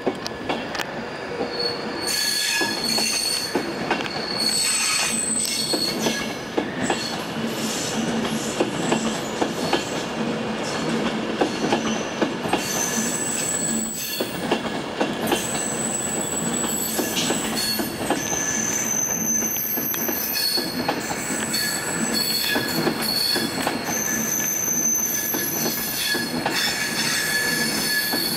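Class 390 Pendolino electric train running through the station, its wheels giving a series of high squeals that come and go, over a steady rumble with clicks from the rail joints.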